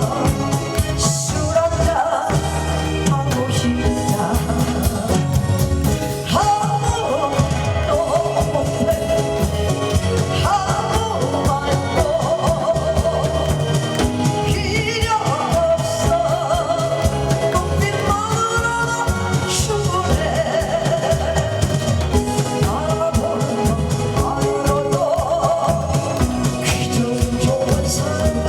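A woman singing live over an amplified backing track with a steady beat, holding long notes with vibrato.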